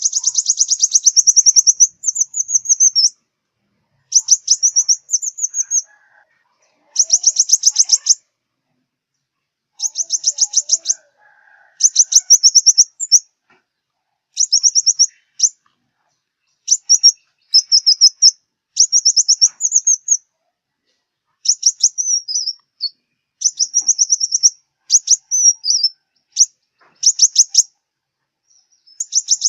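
Sunbird of the kind called 'five-colour sunbird' (hút mật 5 màu) in southern Vietnam, singing. It gives rapid, high-pitched trilled phrases about a second long, repeated with short pauses between them.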